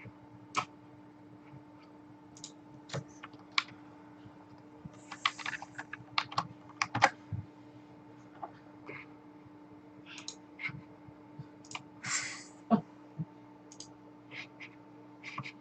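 Irregular clicks and taps on a computer keyboard, a few at a time with short pauses between, over a steady low electrical hum.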